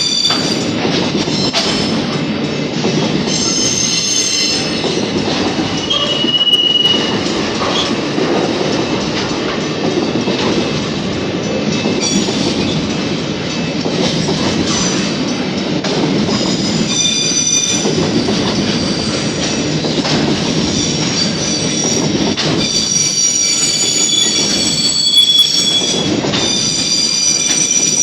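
A freight train of empty flat wagons rolling past, its steel wheels rumbling steadily on the rails. High-pitched wheel squeal comes and goes throughout, strongest near the start and in the last few seconds.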